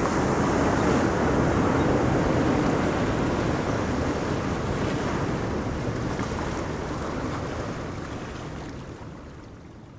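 Ocean surf washing on a beach, a dense steady rush of breaking waves that fades away over the last few seconds.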